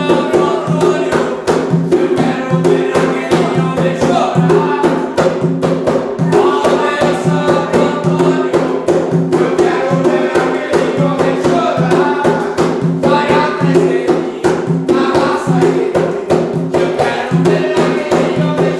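Umbanda ritual music: hand drums beating a fast, steady rhythm, with singing over them.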